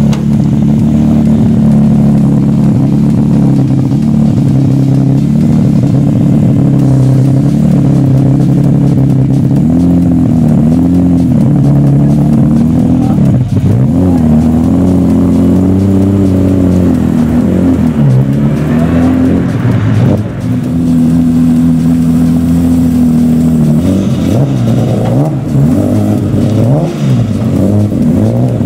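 BMW touring race car engine running loudly, holding a steady note for long stretches and revving up and down several times in the middle and again near the end.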